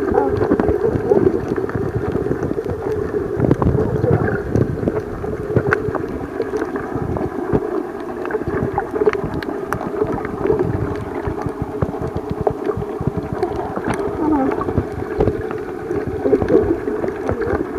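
Muffled underwater noise as heard by a submerged camera: a steady low wash of water sound and bubbling, with many small scattered clicks and crackles.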